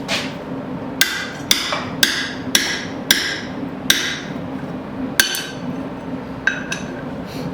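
A hammer striking a steel drift to open out the hole punched through a hot horseshoe, worked from the back side. About ten sharp metallic blows at an uneven pace, each ringing briefly, coming closer together in the first four seconds and more sparsely after.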